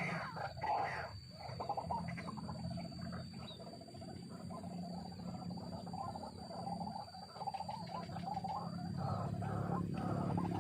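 White-breasted waterhen calling: a rapid run of repeated notes, over a steady low hum.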